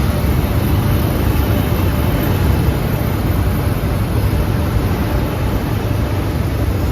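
Spring end-grinding machines running steadily, grinding compression spring ends flat: a loud, even hum with hiss.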